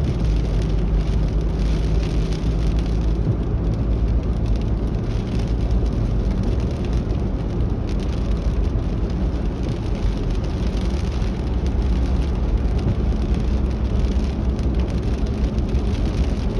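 Car driving in the rain: a steady low engine and road rumble under a hiss of rain and wet road.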